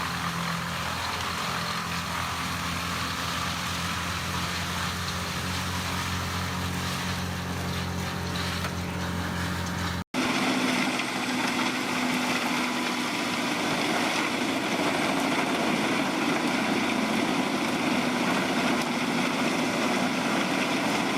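Wood chipper engine running steadily at a constant pitch. About halfway through there is an abrupt cut to another wood chipper, which is louder and has a rougher, hissing sound.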